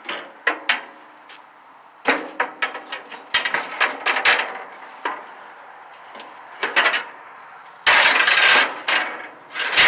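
Metal cooking grates being set back into a gas grill: a run of irregular clanks and knocks, with a longer, louder stretch of noise about eight seconds in.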